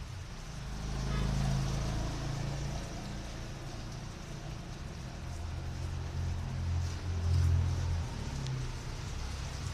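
Steady rain hiss with a motor vehicle's engine rumbling past about a second in, and again, louder, from about five to eight seconds in.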